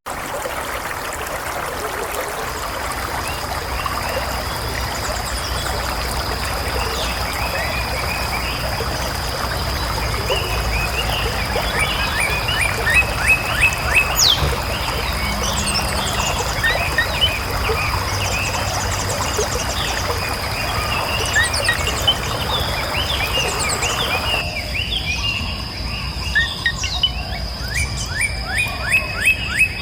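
Forest ambience: birds chirping in quick repeated downward-sweeping notes over a steady high insect whine and the rush of running water. The water rush cuts off suddenly about 24 seconds in, leaving the birds and the insect.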